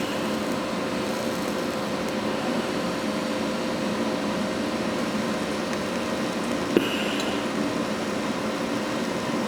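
Welding arc crackling steadily as a bead is run along a seam in steel plate, with a single sharp click about seven seconds in.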